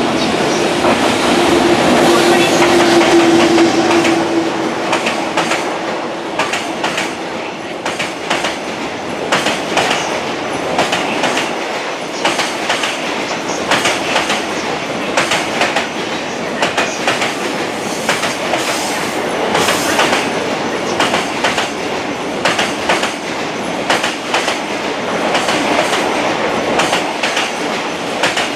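A train running past, its wheels clacking in a steady rhythm over the rail joints, with a steady low hum in the first few seconds that fades away.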